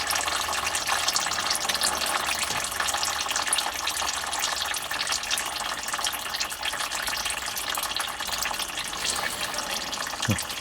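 Gear oil draining in a steady stream from the drain-plug hole of a VW Type 2 transmission, splattering into a pan.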